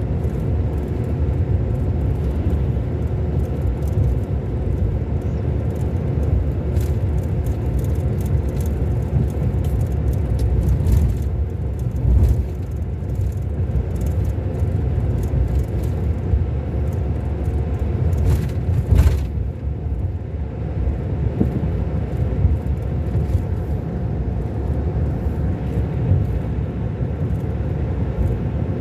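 Scania K400 Euro 5 coach's six-cylinder diesel engine running steadily with the bus under way, a low rumble mixed with road noise, with a few brief knocks partway through.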